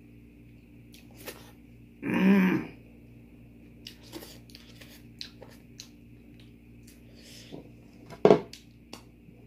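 A person eating: chewing with scattered short clicks and crunches. About two seconds in comes a loud half-second throat-clearing sound, and near the end a single sharp, louder click.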